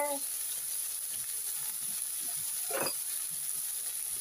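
Shrimp and vegetables frying in a pan, a steady quiet sizzling hiss, with one short faint sound about three seconds in.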